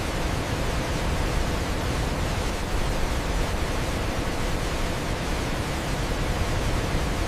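Waterfall crashing, a steady, even rush of falling water.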